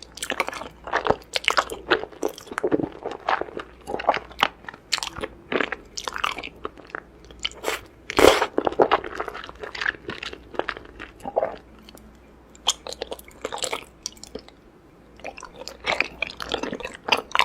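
A person chewing and biting noodles, heard as a dense run of quick wet clicks and smacks. The loudest one comes about 8 seconds in, and it eases off briefly around 12 to 15 seconds in.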